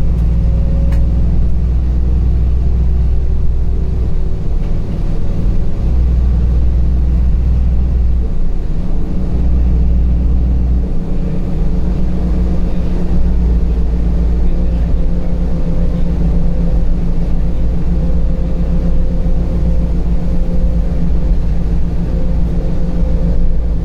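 Interior of a LiAZ 5292.65 city bus under way: steady low engine and road rumble with a faint, slowly shifting whine, the deep rumble swelling twice in the first half.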